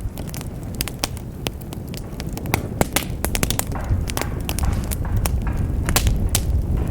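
Wood fire in a fireplace crackling, with many irregular sharp snaps and pops over a low steady rumble of the flames.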